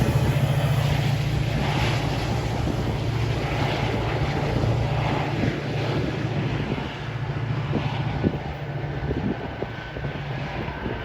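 Diesel-hauled Metra commuter train running, a steady low rumble with a noisy wash on top that slowly fades, with several sharp clicks about eight seconds in.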